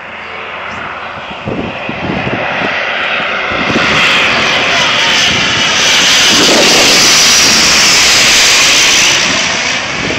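A landing airliner passing low overhead on final approach: its engine roar swells over several seconds to a loud peak, then begins to fade near the end.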